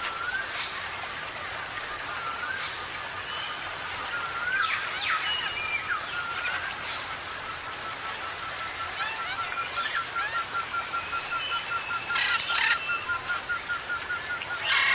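Parrots chirping and calling: short sharp rising whistles from several birds, with a fast, even trill that runs through the second half, and a loud burst of calls near the end.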